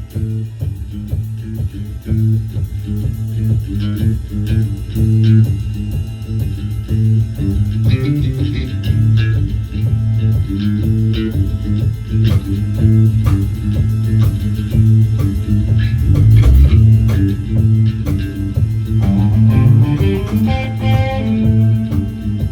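Rock band playing live: electric guitar and bass guitar over drums, with a steady beat.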